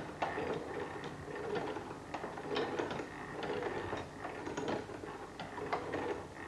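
Bryan Donkin's 1820 geometric lathe (rose engine) being turned by hand, its gears, cam and moving arm running with irregular clicks and knocks over a steady mechanical rumble.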